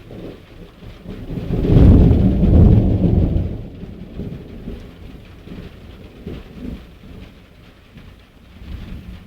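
Thunder: a loud rolling rumble that swells about a second and a half in, peaks around two to three seconds, and dies away over the next second, with rain falling throughout.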